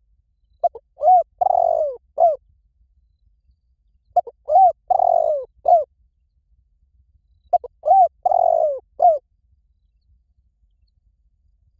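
Spotted dove cooing its song three times, roughly every three and a half seconds. Each phrase is two short coos, a longer falling coo, then a short closing coo.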